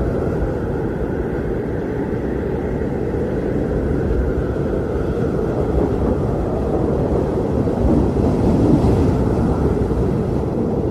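Strong blizzard wind blowing steadily in a deep rumble, with a faint howling band above it and a slight swell about eight seconds in.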